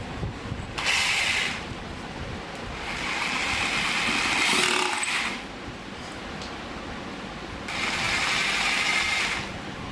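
Foster rotary hammer drill run in three bursts, a short one about a second in, a longer one of about two and a half seconds in the middle, and a third near the end.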